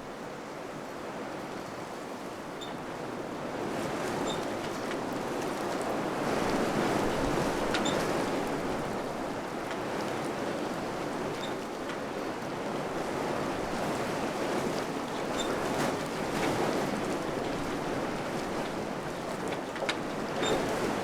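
Wind blowing in gusts, swelling and easing in waves of rushing noise and slowly growing louder, with a few faint scattered ticks.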